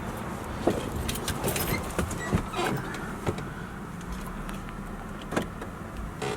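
Scattered clicks and light knocks of someone handling a parked car, its latches and panels, over a low steady background hum.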